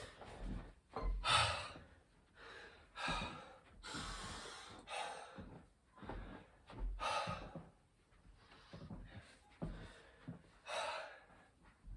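A man's heavy, gasping breaths, one about every second, from exertion while doing burpees, with dull low thumps now and then.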